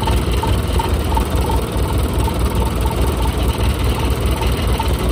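Engine of a tracked rice combine harvester running steadily at idle. A faint high chirp repeats about three times a second over the engine.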